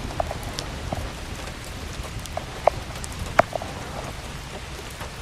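Frozen raindrops (small hail pellets) falling and bouncing off surfaces: a steady patter with scattered sharp ticks, two louder ones about halfway through.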